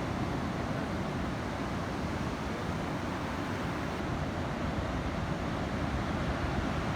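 Steady outdoor wind and surf noise: wind rumbling on the microphone over the wash of ocean waves.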